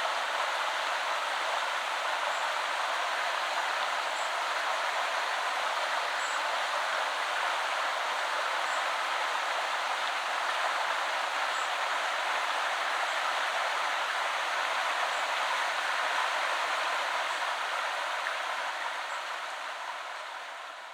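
A woodland river flowing steadily, an even rushing of water, fading out near the end.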